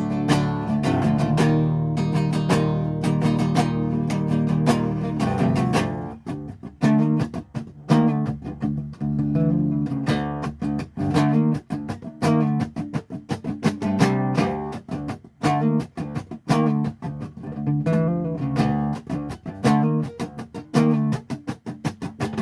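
Guitar playing an instrumental passage of a song. Held, ringing chords give way about six seconds in to a rhythmic pattern of separate strummed or picked strokes.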